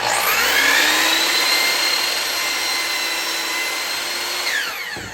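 Electric power saw switched on, its motor whine rising quickly to a steady pitch as it cuts a pine 1x3 board, then falling as it winds down near the end.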